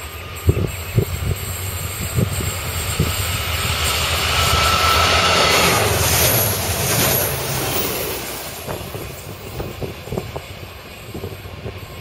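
A Niederbarnimer Eisenbahn diesel passenger train passing through at speed: wheels knock over rail joints, the running noise swells to its loudest about halfway through with a faint high whine, then dies away as it goes by.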